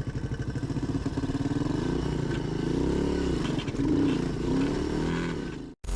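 Motorcycle engine pulling away from low speed. Its fast, even beat rises in pitch and dips a few times with the throttle, then cuts off suddenly near the end.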